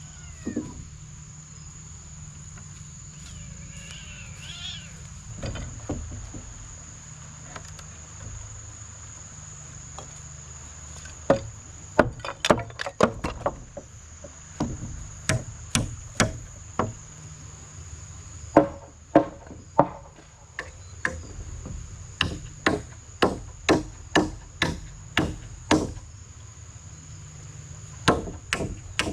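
Repeated sharp blows striking wood, in runs of about one or two a second beginning about eleven seconds in, with brief pauses between runs. Under them runs a steady high-pitched insect drone.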